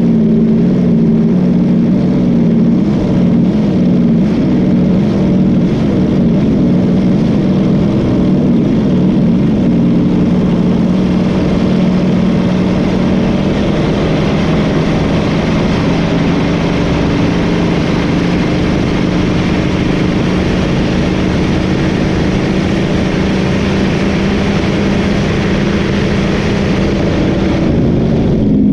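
Boat engine running steadily and loudly at speed, a continuous low drone.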